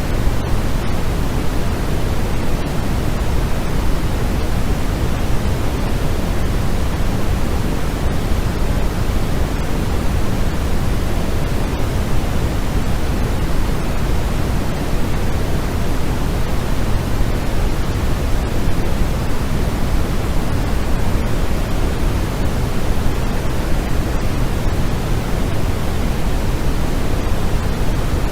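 Steady, unchanging white noise, heavier in the lows than in the highs, giving a deep, even hiss with no variation.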